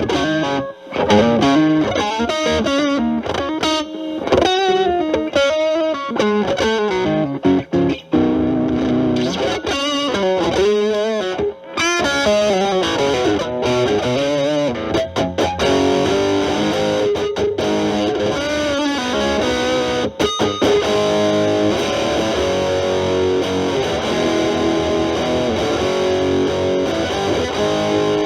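Fender Stratocaster with Alnico single-coil pickups played through a Boss DS-1 distortion, stacked with an Ibanez TS9 Tube Screamer as a gain booster, into a Marshall Valvestate amp: overdriven lead lines with string bends and vibrato, moving to longer held notes and chords in the second half. The DS-1 distortion is at 12 o'clock and the TS9 gain at 9 o'clock.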